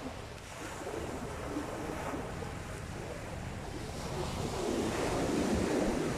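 Sea waves washing onto the beach, one wave swelling and growing loudest near the end.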